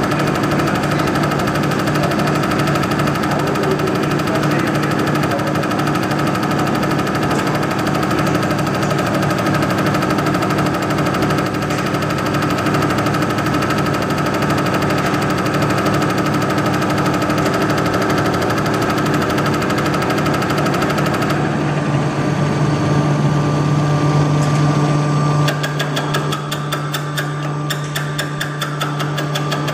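Scania unit injector running on a test bench, the bench's drive humming steadily under a fast, even rattle of injector strokes. About two-thirds through the rattle drops away and the hum shifts, then fast ticking comes back more quietly near the end.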